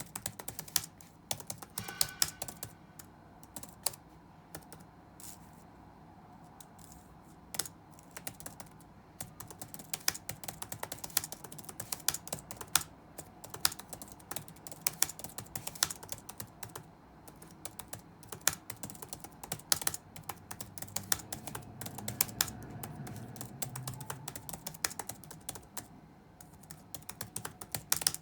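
Typing on a computer keyboard: irregular runs of key clicks with short pauses, the sound of continuous touch-typing. A faint low background noise swells briefly a little past two-thirds of the way through.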